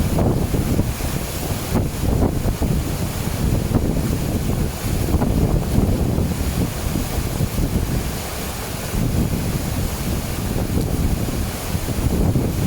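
Flood water rushing in a flowing wadi, with wind buffeting the microphone in gusts throughout.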